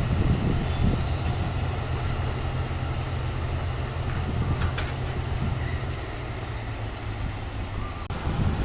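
A large diesel engine running steadily with a low rumble, with a short run of quick faint high ticks about two seconds in and a single click near the middle.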